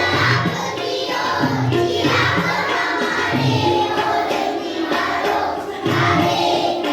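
A group of voices singing an Indian devotional Krishna song in chorus over music with a steady drum beat.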